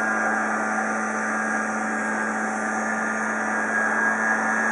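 Kawasaki backpack blower engine running steadily at a constant speed, a continuous even hum.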